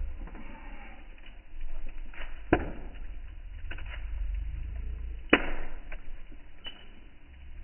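Campfire crackling: wood popping in scattered sharp cracks, two of them loud, about two and a half seconds in and again near five seconds, over a low rumble.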